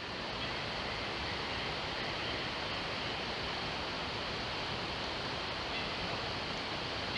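Steady rush of a mountain stream.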